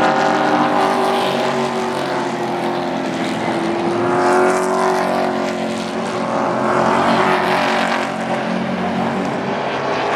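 Several Super Truck race engines running hard together around the oval, their pitch rising and falling as the trucks go past, with the loudest pass near the middle.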